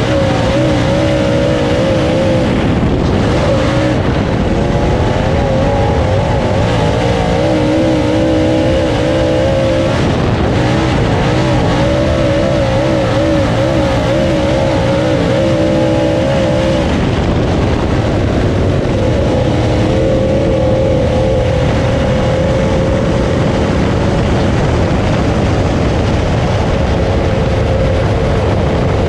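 Dirt late model race car's V8 engine running hard at racing speed, its pitch rising and falling repeatedly with the throttle, over steady wind and track noise.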